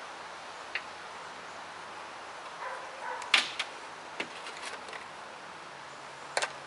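A handful of short, sharp clicks and knocks at irregular moments, the loudest about three and a half seconds in and a quick pair near the end.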